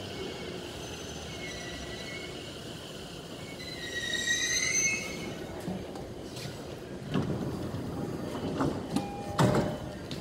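E231-series commuter train pulling in and slowing to a stop, with a thin high squeal from its brakes and wheels that swells about four seconds in and fades. A few sharp knocks follow near the end.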